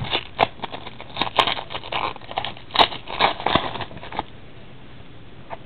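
Trading cards and their packaging being handled by hand: a quick run of rustles and sharp clicks that stops about four seconds in.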